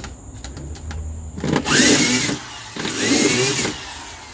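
Two harsh scraping strokes about a second apart, each with a faint squeal that rises and falls, after a few light clicks: a hand tool working soil while a planting ridge is built up.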